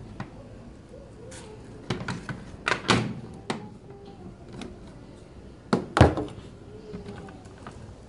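A series of sharp knocks and clunks of hard objects being handled, a cluster of them about two to three and a half seconds in and the loudest pair about six seconds in.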